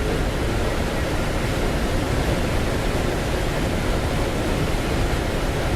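Steady rush of airflow over an engineless glider in flight, heard from inside the cockpit: an even hiss with no engine in it.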